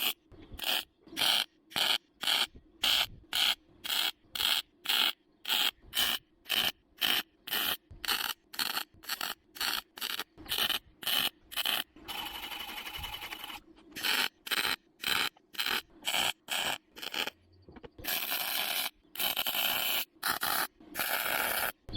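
Hand file rasping back and forth on a sheet-steel repair patch, about two strokes a second. Longer unbroken scraping runs come about twelve seconds in and again near the end.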